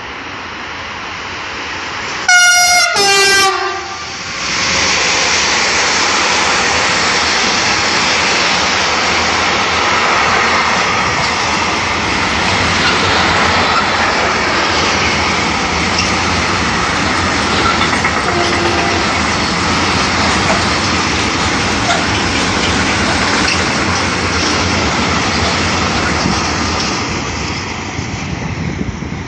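Freight train hauled by a Siemens Vectron electric locomotive passing at speed. About two seconds in, a two-note horn blast sounds, a high note then a lower one. After it the wagons run by with a steady rumble and clickety-clack for over twenty seconds, fading near the end.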